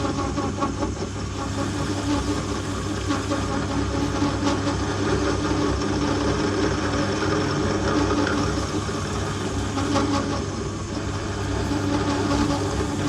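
Metal lathe running with a parting-off tool cutting through steel stock: a steady motor hum with a ringing tone from the cut and occasional knocks at the tool. The part has not yet dropped off, which the operator puts down to the bore probably not going in far enough.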